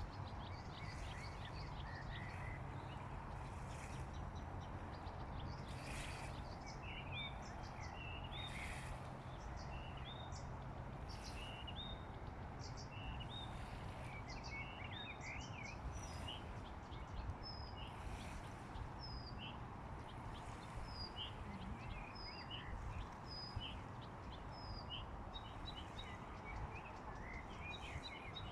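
Small birds chirping and calling, with a short high whistle repeated over and over in the second half, over a steady low rumble of background noise.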